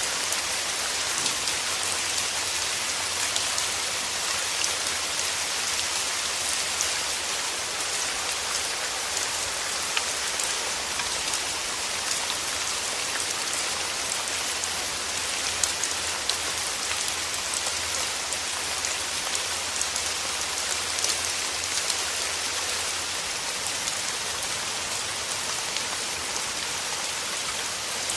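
Steady rain: a dense, even hiss with many small drops ticking.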